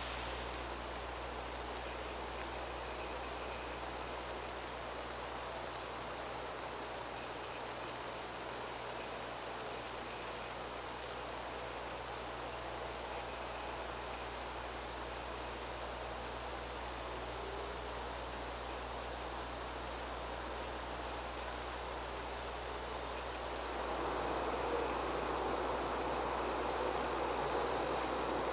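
Crickets trilling in a steady, unbroken high-pitched chorus. It grows louder about 23 seconds in, along with more background hiss.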